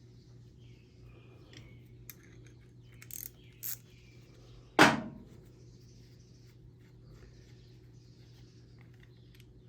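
Carburetor parts and hand tools being handled during small-engine disassembly: scattered light clicks and two short scrapes, then one loud clank with a brief ring about five seconds in.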